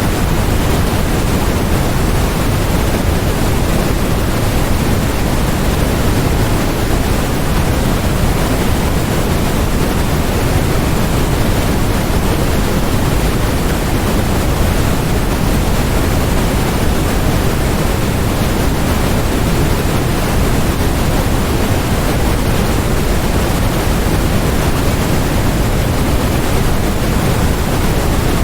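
Steady, unchanging generated noise: an even rush across the whole range, heavier in the lows than in the highs.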